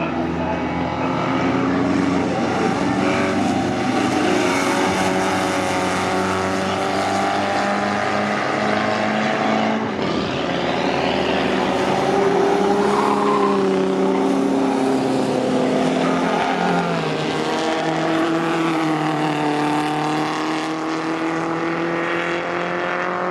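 Several vintage racing cars' engines running on track at once, their pitches rising and falling as they accelerate and ease off.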